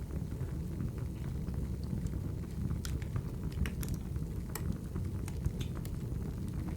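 Firewood crackling as it burns in a fireplace: scattered sharp snaps over a steady low rumble of the fire.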